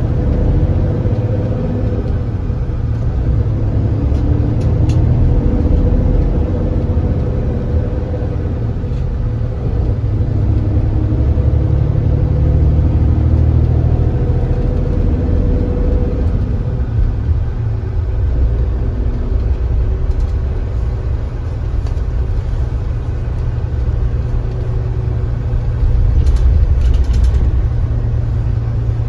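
Engine of a Hyundai Granbird Sunshine coach running as the bus drives, heard from on board over a heavy road rumble. The engine note holds steady, then shifts to a lower tone about halfway through.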